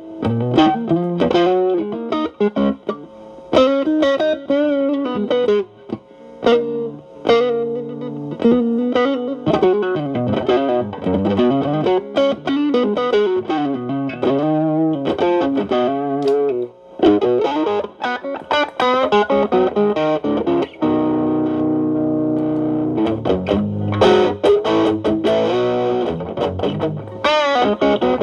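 Electric guitar, a Stratocaster with alnico pickups, played through a Xotic AC Plus overdrive pedal into a Marshall Valvestate amp, with the drive cleaned up to a light crunch. Bluesy single-note phrases with bends and vibrato, then a chord struck about 21 seconds in and left ringing.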